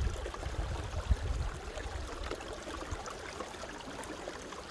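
Steady rush of a flowing stream, with low rumbling bumps on the microphone during the first second or so.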